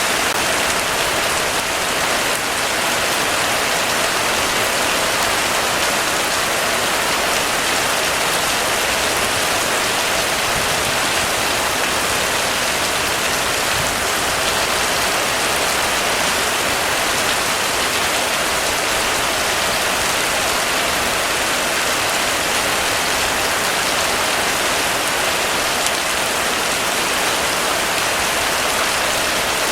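Heavy, steady rain falling on a surface, an even rushing hiss with no thunder or breaks.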